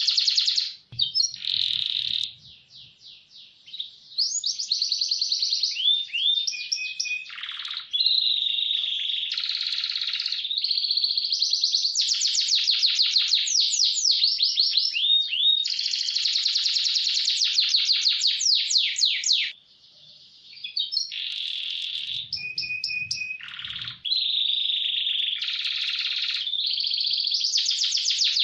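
Domestic canary singing a long, fast-rolling song: rapid trills and strings of quickly repeated notes follow one another almost without a break. There are two short pauses, about 2–4 seconds in and about 20 seconds in.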